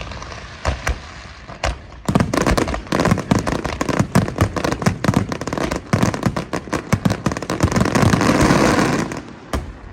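Aerial fireworks in their finale: rapid volleys of shell bursts and bangs that thicken into a dense crackling barrage. It cuts off about nine seconds in, followed by one last bang.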